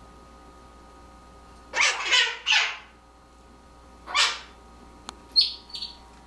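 Blue-crowned conure giving short, harsh squawks: three in quick succession about two seconds in, another a couple of seconds later, then a sharp click and two higher, thinner chirps near the end.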